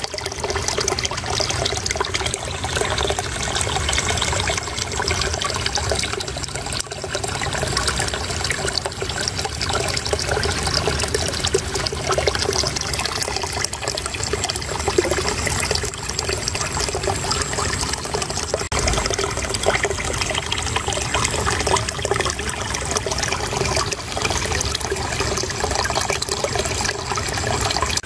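Shallow running water trickling and babbling steadily.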